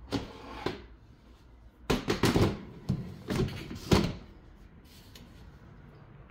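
Kitchen cupboard being handled: a string of knocks and clatters as things are moved in and out of it, most of them between about two and four seconds in.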